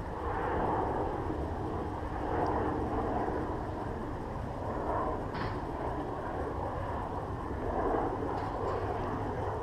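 Wind buffeting the microphone in a stiff breeze, a rumbling, gusting noise, with the faint steady whine of the Eachine E119 micro helicopter's electric rotor motor under it in the first few seconds.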